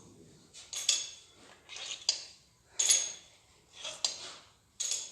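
Steel cylinder head bolts and washers clinking and scraping as they are taken out one by one, in short separate bursts about a second apart, some with a sharp metallic ring.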